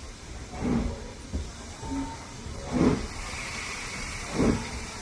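BR Standard Class 4MT steam locomotive working slowly: heavy exhaust beats a second and a half to two seconds apart over a steady rumble, with a stretch of steam hiss in the middle.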